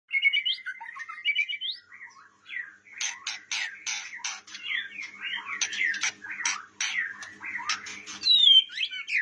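White-rumped shama singing a varied, continuous song. It opens with quick runs of rising whistled notes, and from about three seconds in it mixes whistles and slurred notes with a rapid series of sharp, clicking notes.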